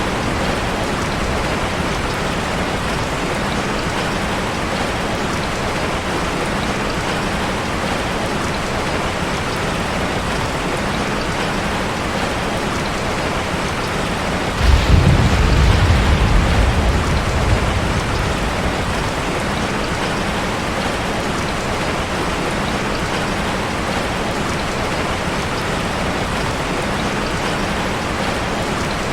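Heavy rain hitting a car, a steady even hiss. About halfway through, a low rumble of thunder comes in suddenly and fades away over a few seconds.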